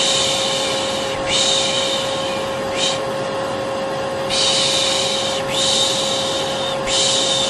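Vacuum cleaner running with a steady drone, with a person's rhythmic 'piş piş' shushing over it: three long shushes of about a second each, then a short one, and the pattern starts again about halfway through. This is the shushing-and-vacuum white noise used to soothe babies to sleep.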